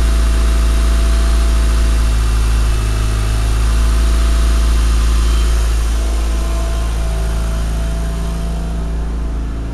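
Mitsubishi Lancer Evolution IX's turbocharged four-cylinder idling on E85 soon after a cold start, its idle pitch shifting a little a couple of times as it settles. The idle is smooth, with no ticking or knocking.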